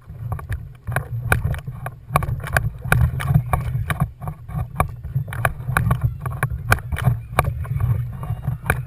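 Water slapping against a kayak hull: irregular sharp knocks, several a second, over a steady low rumble.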